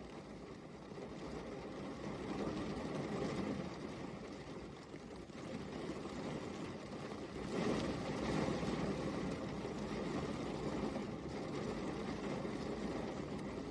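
Steady rain falling, an even, dense hiss heaviest in the low end. It swells louder a little past halfway.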